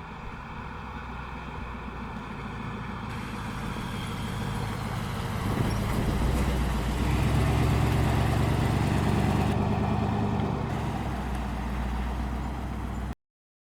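1941 Ford Sedan Delivery's engine and exhaust running as the car drives, growing steadily louder for about six seconds, then easing slightly before cutting off suddenly near the end.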